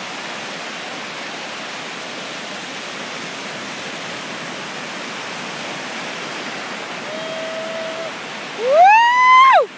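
Steady rush of ocean surf. Near the end, a loud, high cry rises sharply in pitch, holds, then drops off.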